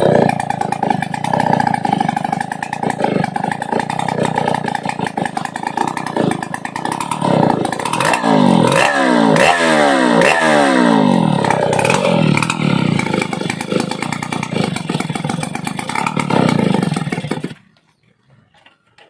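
Stihl 070 two-stroke chainsaw engine running loud, revved up sharply about four times in quick succession around the middle, then cut off suddenly near the end.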